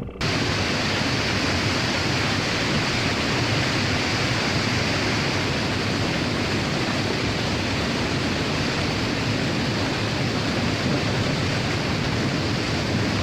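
A steady, even rushing noise that starts abruptly right at the start and holds unchanged, with no separate knocks or tones in it.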